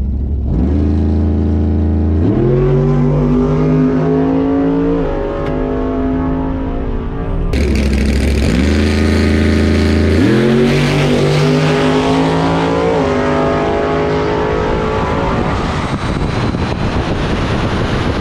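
Built 5.0 V8 Ford Mustang drag car revving on the starting line, its pitch climbing in steps and holding, twice over. Later the sound turns rougher and noisier as the car leaves the line.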